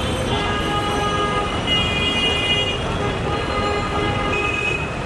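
Busy road traffic with several vehicle horns honking over it at different pitches. The horns overlap and start and stop every second or two.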